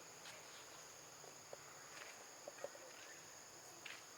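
Faint, steady high-pitched insect drone, with a few soft ticks and rustles.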